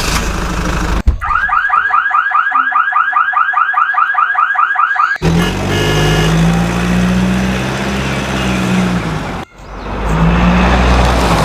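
Electronic alarm-like sound effect: a rapid run of rising chirps, about five a second, for roughly four seconds. It then gives way to a loud, steady, engine-like vehicle hum that breaks off briefly and resumes near the end.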